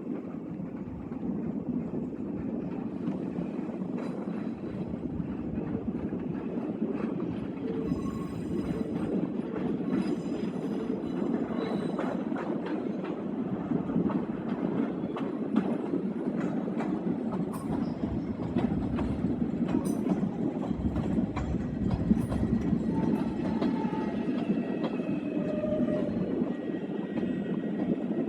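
A train running along the track, its wheels clicking over rail joints over a steady rumble, with brief high wheel squeal.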